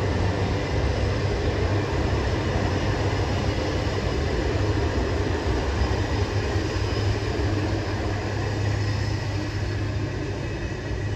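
Passenger cars of a train rolling past, a steady rumble of wheels on the rails.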